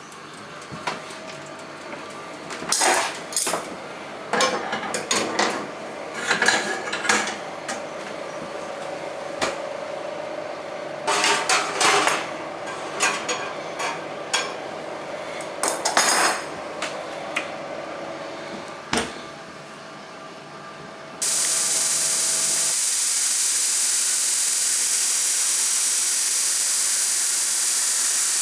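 Irregular metallic clinks and scraping of steel tools being handled and worked. About three-quarters of the way through, a loud steady hiss starts suddenly and carries on.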